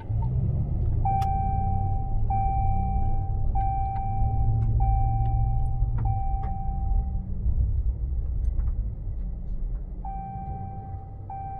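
A motor vehicle's engine running steadily, with a repeating electronic beep of about a second each, five in a row. The beeping stops for a few seconds and then starts again near the end, like a reversing alarm or warning chime.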